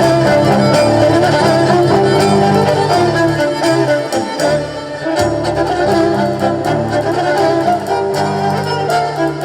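Live band music: a melody of quick pitched notes over a sustained bass line, played loud.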